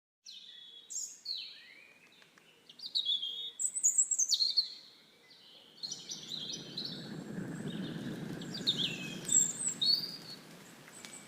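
Birds chirping and singing in quick, high-pitched phrases, cutting out to silence twice. From about six seconds in, a low steady rushing noise runs beneath the birdsong.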